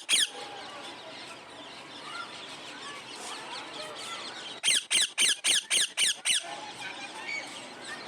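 Parrot giving a quick run of about eight loud, shrill screeches about halfway through, with soft chirps and squeaks before and after.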